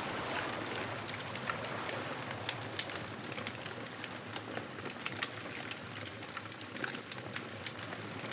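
Bonfire crackling, with an irregular patter of sharp snaps and pops, over a steady wash of surf that eases through the middle and builds again near the end.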